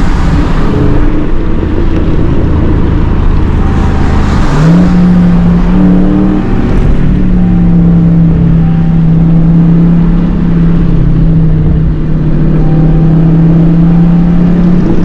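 V8 muscle-car engine running at a low, steady pitch, then rising quickly about four and a half seconds in and holding a steady higher drone, as under acceleration to a constant cruising speed.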